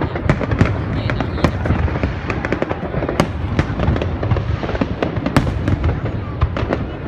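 Fireworks display: a rapid, irregular run of sharp bangs and crackling over a continuous low rumble of bursting shells.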